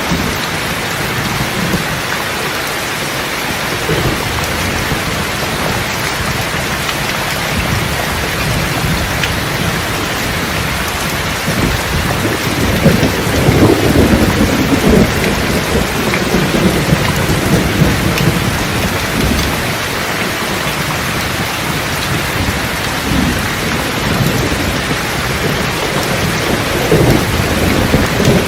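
Steady heavy rain with a rolling rumble of thunder that swells about halfway through and fades over a few seconds.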